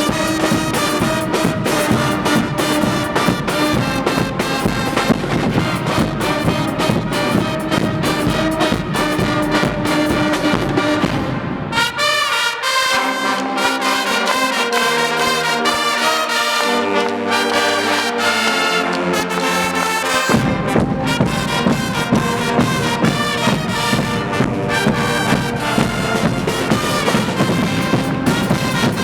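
Guggenmusik carnival band playing loudly on brass and drums. About twelve seconds in, the drums stop and the horns play a passage alone for some eight seconds, then the drums come back in with the full band.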